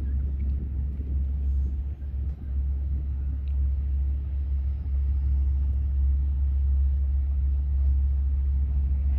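Approaching train heard from the platform: a steady deep rumble that grows louder about halfway through.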